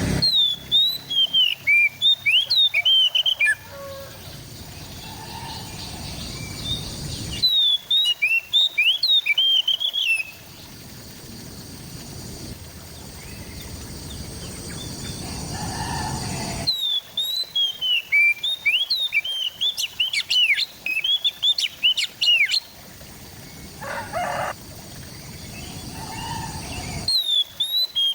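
Oriental magpie-robin (kacer) singing in bursts of rapid whistled and chirping notes. The bursts are separated by quieter gaps, and the background changes abruptly at their edges, as in an edited, looped song recording.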